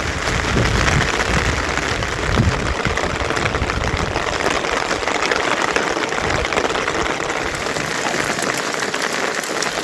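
Heavy monsoon rain falling as a loud, steady hiss, with a low rumble in the first few seconds.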